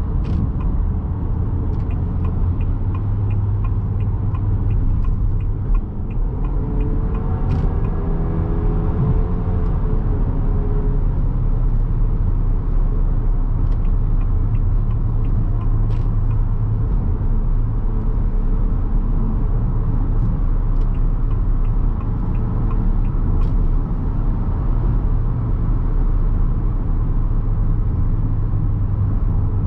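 Cabin sound of a 2023 Haval H6-GT's 2.0-litre engine and seven-speed dual-clutch drivetrain at highway speed in Race Mode, a steady low engine and road rumble. A light ticking, about three a second, runs through the first six seconds. About seven seconds in, the engine note climbs and falls as the car accelerates.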